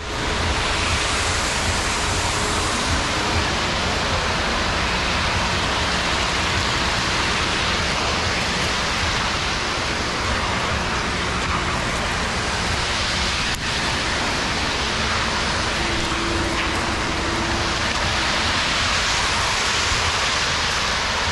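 Steady rain falling, an even hiss with a low rumble beneath it, and a single sharp click about two-thirds of the way through.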